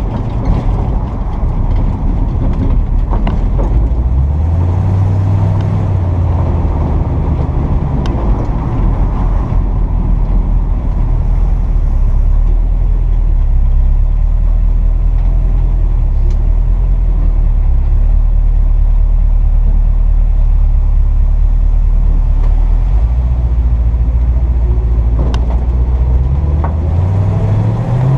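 1957 Chevrolet 3100 pickup's engine running on the road. It picks up revs about four seconds in, holds a steady note through the middle, then climbs again as it accelerates near the end.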